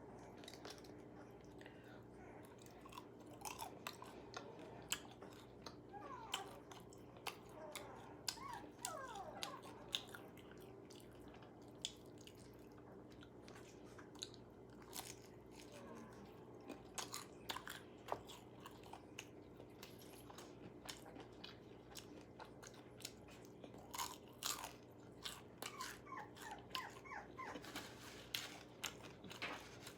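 Crunching and chewing of KFC fried food: crisp crunches every second or so among softer chewing, faint over a steady low hum.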